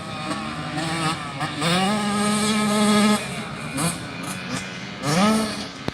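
Dirt bike engine revving up and easing off. The pitch climbs shortly after the start, holds steady for about a second and a half, falls away, then rises again near the end.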